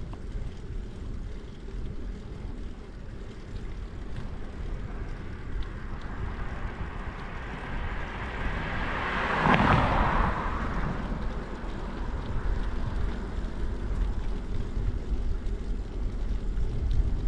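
Wind buffeting the microphone of a moving bicycle, a steady low rumble. About halfway through, a passing vehicle swells up, peaks and fades away over several seconds.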